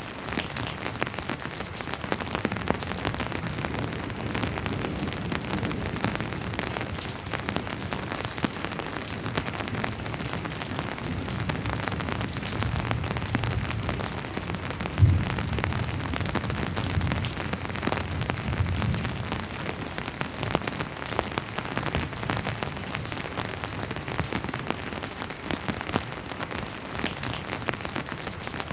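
Steady rain falling, with many individual drops pattering close by. In the middle comes a low rumble of distant thunder with one sharp thump at its peak, fading away a few seconds later.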